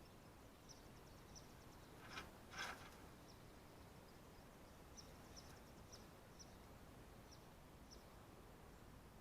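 Faint, quiet background with short high chirps scattered every second or so, and two brief scratchy rustles a little over two seconds in.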